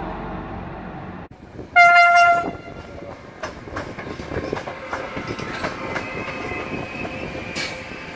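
A train passing: a steady rumble, then one short loud horn blast about two seconds in, followed by the wheels clacking over rail joints, with a thin steady squeal joining in the last couple of seconds.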